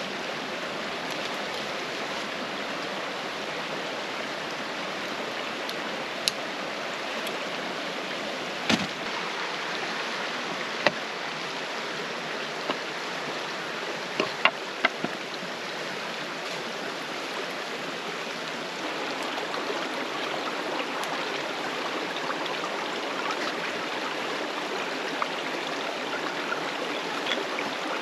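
Mountain creek flowing with a steady rush, with a few sharp pops and crackles from the campfire scattered through it.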